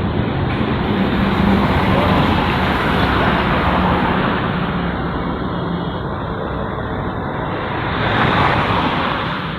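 Wind and road noise from a moving motorcycle on the highway, with the motorcycle engine's low hum that fades about halfway through. The noise swells briefly about eight seconds in.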